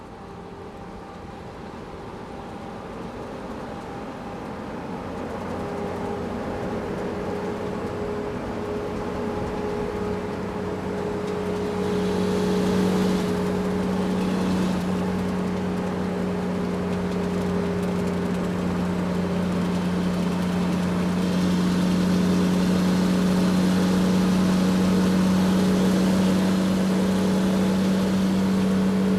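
Truck engine running with a steady low hum, growing steadily louder through the first dozen seconds and then holding, with stretches of hiss about halfway through and again later.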